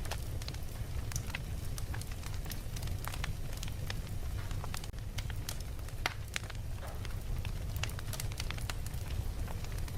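Fire crackling: irregular pops and snaps over a steady low rumble.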